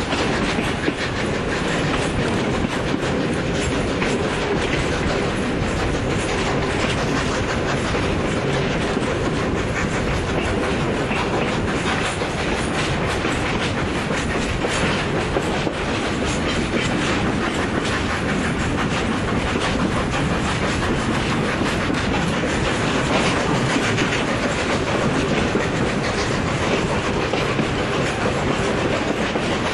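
Steam-hauled passenger train running, heard from a carriage window: a steady rumble from the carriages, with the wheels clicking over the rail joints.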